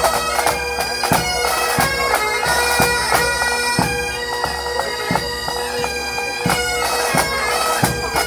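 Bagpipe music: a melody played over a steady drone.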